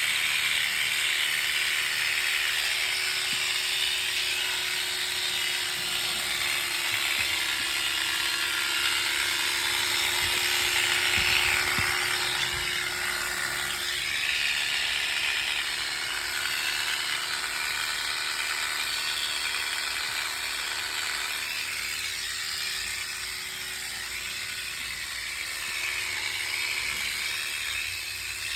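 Electric shearing clipper running steadily with a buzzing motor hum, shearing a sheep's wool.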